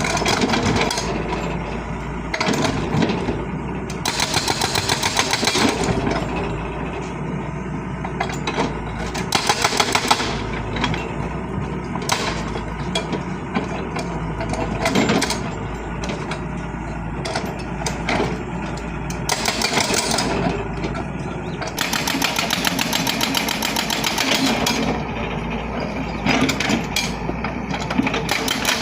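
Diesel engine of a 2007 Hyundai excavator running steadily. It rises several times into louder, hissier stretches lasting one to three seconds.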